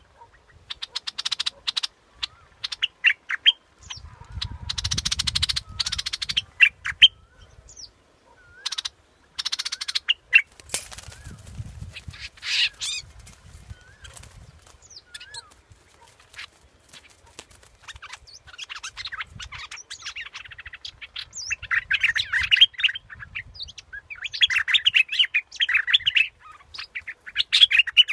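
A bulbul of the kind Thai bird keepers call the 'dok taeng' bulbul, singing and chattering in quick bursts of chirps, whistles and trills, as played for a decoy call. A low rumble comes in twice beneath the song.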